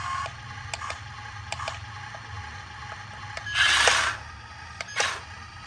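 A toy RC dumper truck's small mechanism: scattered light clicks, then a loud brief scrape or whir about three and a half seconds in, and a shorter one near the end.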